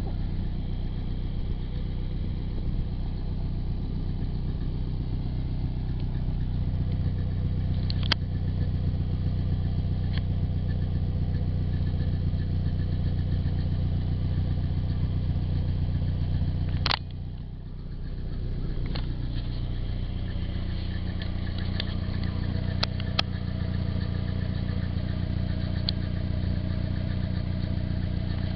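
Nissan 240SX's stock 2.4-litre four-cylinder engine running steadily with a rattle, which the owner suspects is the timing chain slapping its guide or else the water pump. A sharp click comes about 17 seconds in, and the sound drops for a moment before recovering.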